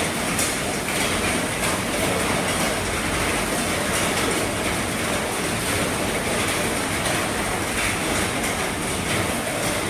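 Heavy rain drumming steadily on an RV's roof: a dense, even wash of drops with faint individual taps.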